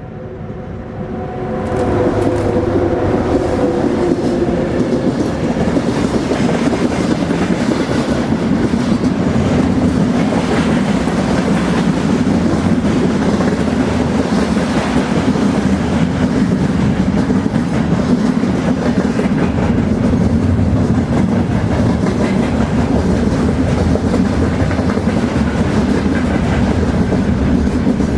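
Train passing: a steady loud rumble of rolling wagons that swells over the first two seconds and then holds. A few held tones fade out during the first few seconds.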